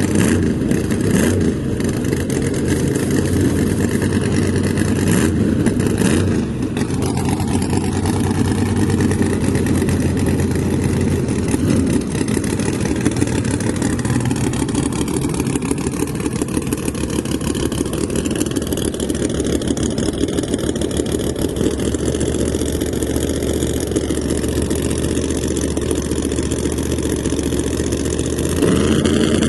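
Drag race car engines running, idling and revving, with a few sharp clicks in the first six seconds and a rise in loudness near the end.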